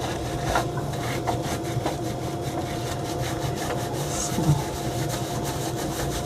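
Kitchen sink tap running steadily while shampoo is rinsed out of hair, with hands rubbing and scrubbing the wet hair.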